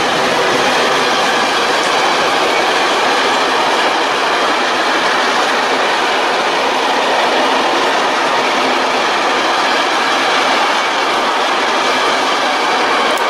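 A train passing close by at speed: a loud, steady rush of wheels on rails and wagons going by, holding an even level throughout.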